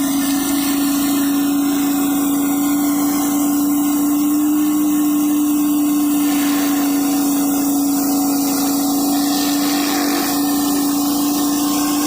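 Gas-engine pressure washer running steadily under load, its engine and pump holding a constant tone while the high-pressure water spray hisses against concrete.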